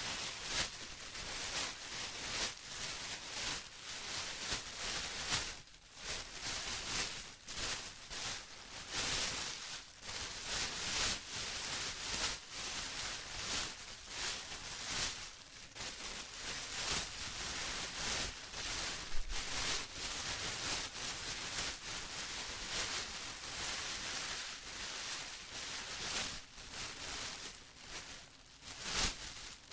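Plastic rustling and crinkling in an unbroken stream of quick crackles, rising and falling in loudness.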